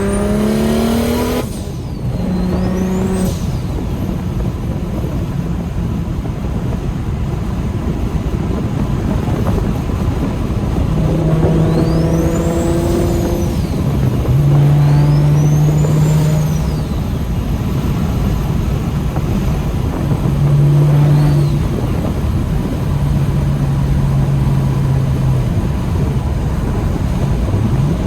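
A single-turbo-converted BMW N54 straight-six heard from inside the cabin under way. The revs climb at the start and drop about a second and a half in, then the engine holds steady notes over road and wind noise. A high whine rises and falls a few times.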